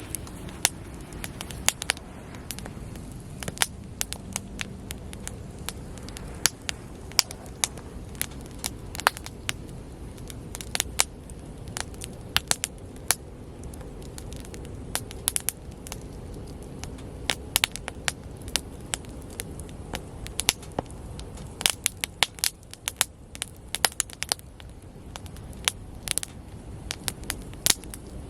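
Wood bonfire crackling: irregular sharp pops and snaps, several a second, over a steady low rumble of the burning fire.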